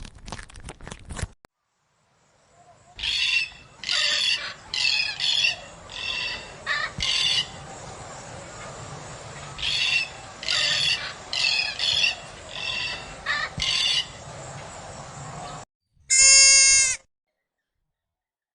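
Animal calls: a run of about a dozen short, high-pitched calls over a steady background hiss, then a single loud bleat near the end. A quick patter of clicks sounds in the first second.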